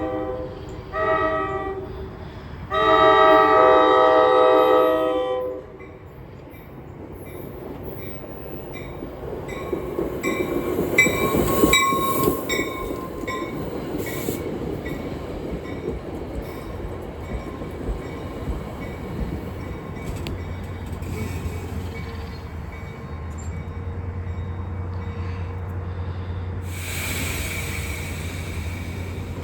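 Train horn sounding a chord: a short blast about a second in, then a long blast, the end of a crossing signal. The train then passes with rising rumble and wheel clicks over rail joints, loudest around eleven to twelve seconds in, fading to a steady low hum.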